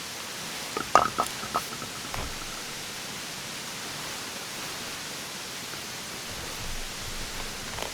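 Steady rush of a mountain stream. About a second in come a few sharp clinks, one with a brief ring.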